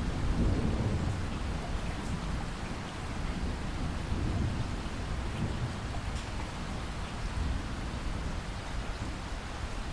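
Steady rain falling, with a low thunder rumble that swells about half a second in and again around four seconds in.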